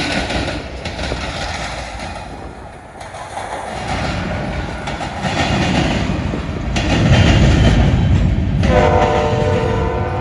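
BNSF grain train's diesel locomotives rumbling past, growing louder, with the locomotive air horn sounding one long, steady chord near the end.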